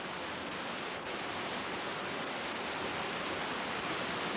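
Steady rush of river water pouring over a dam and through rapids.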